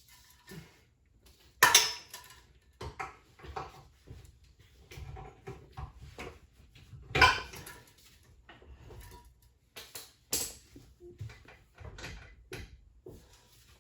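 Metal tools clanking and knocking against metal car parts in irregular rattles and taps, with two loud metallic strikes, one about two seconds in and one about seven seconds in.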